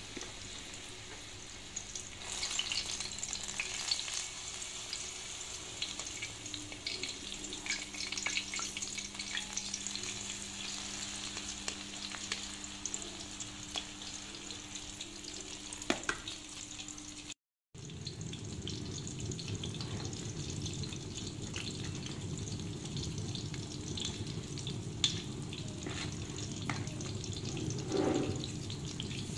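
Battered enoki mushroom fritters deep-frying in hot oil in a wok: a steady sizzle full of small crackles and pops. The sound cuts out for a moment about two-thirds of the way through, then carries on.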